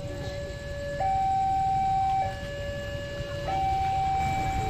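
Railway level crossing warning alarm sounding an electronic two-tone signal, switching between a lower and a higher note about every second and a quarter, over a low rumble.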